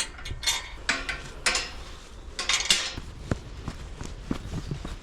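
Footsteps crunching on a woodland path: several loud crunching steps in the first three seconds, then lighter ticks and taps, over a low steady rumble on the microphone.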